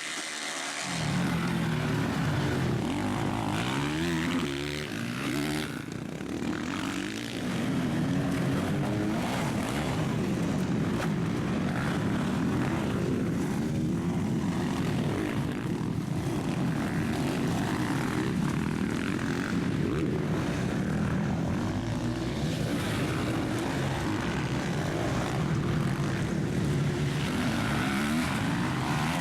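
Motocross bike engines racing, revving up and down in pitch again and again through the gears, starting about a second in.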